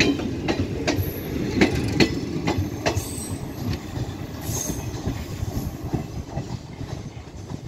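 Express train passing on the track: wheels clack over rail joints for the first three seconds over a steady rumble, which then fades as the train draws away.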